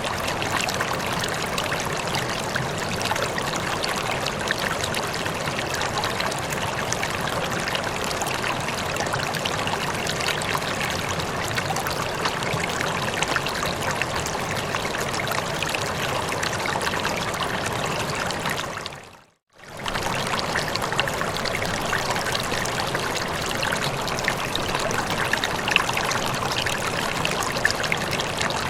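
Steady running water, an even rushing trickle like a stream. It fades out to silence for a moment about two-thirds of the way through, then resumes at the same level.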